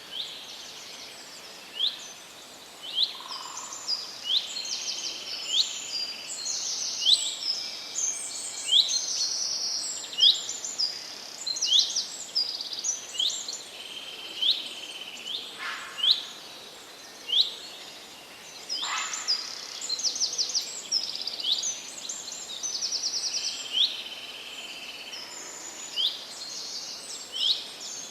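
Forest birdsong: several birds singing together, with short sweeping chirps every second or so and rapid high trills, over a faint steady hiss.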